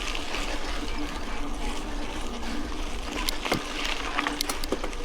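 Mountain bike rolling along a dirt road: steady tyre noise over the gravel, with a few sharp clicks and rattles from the bike about three to four seconds in.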